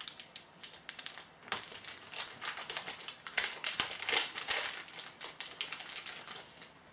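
Crinkling and rustling of a trading-card pack's wrapper and the cards inside being handled, a quick irregular patter of small clicks and crackles.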